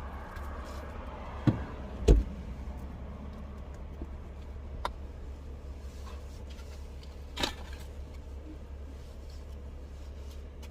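A few knocks and thumps of things being handled inside a car, the loudest a pair about a second and a half to two seconds in and lighter ones later, over a steady low rumble.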